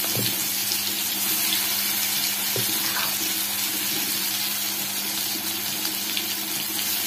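Coarsely ground green chilli and garlic paste sizzling in hot oil in a kadhai: a steady, even hiss of frying, with a few faint pops.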